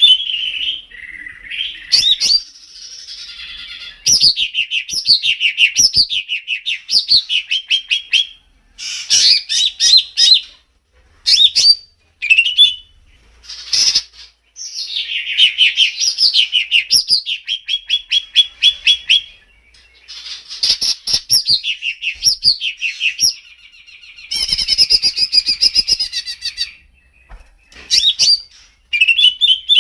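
Songbird song used as masteran: phrases of a few seconds of quick, falling, whistled notes and fast runs of repeated chirps, broken by short pauses.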